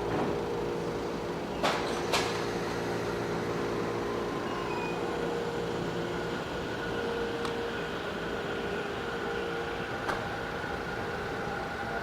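Commuter electric train heard from inside or beside it: a steady rumble with an even motor hum that fades out about halfway through, and two sharp clicks close together about two seconds in.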